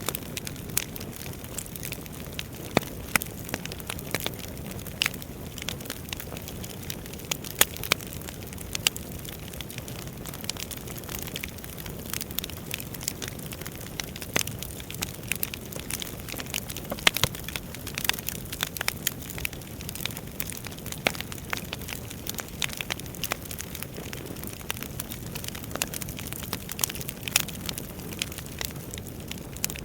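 Wood fire burning in a fireplace: a steady low rush of flames with constant crackling and irregular sharp pops from the burning logs, a few noticeably louder snaps scattered through.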